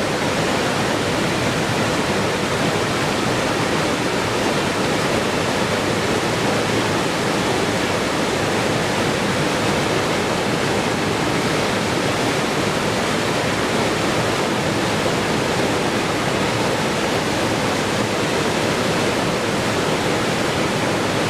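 Steady rush of flowing water, an even, unbroken hiss.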